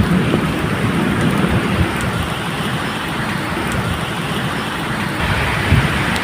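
Steady medium rain falling, with a low rumble of thunder underneath that swells near the end.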